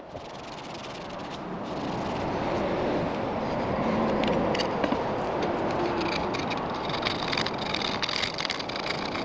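Irregular scraping and clicking of a hand tool on metal, the sound of old head gasket material being cleaned off a Briggs & Stratton engine's cylinder block and head; the clicks and ticks grow busier in the second half.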